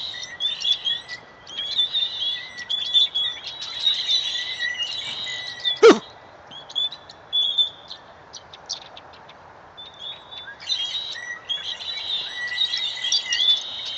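A flock of birds in a tree chattering, with many overlapping chirps. About six seconds in, a single short loud sound cuts across the chatter. For a few seconds after it the chirping thins to scattered calls, then the full chatter resumes.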